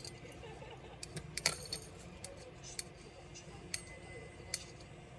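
Light, sharp clicks and taps of tools and small parts against a Dell Latitude 3301 laptop during disassembly: a small cluster about a second and a half in, then single clicks about once a second.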